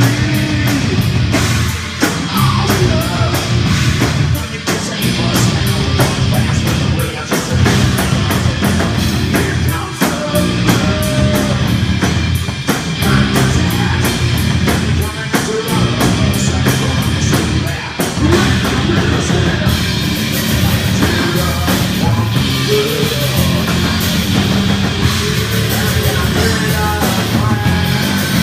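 Heavy rock band playing live: a loud drum kit with rapid, evenly spaced cymbal hits through the first two-thirds, full band instruments, and sung vocals.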